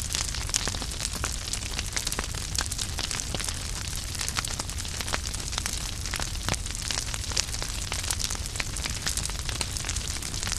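Wood fire crackling in a fireplace: many sharp, irregular pops and snaps over a steady hiss and low rumble of the flames.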